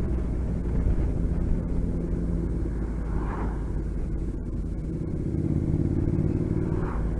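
Motorcycle engine running while riding on the road, with low rumble from wind and road; the engine note rises slightly about five seconds in.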